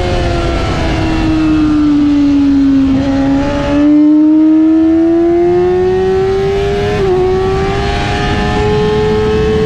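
Yamaha R6 inline-four sport-bike engine at high revs on track. Its pitch falls for about three seconds as the bike slows, then climbs steadily as it accelerates again, with a brief dip about seven seconds in. A low rush of wind noise runs underneath.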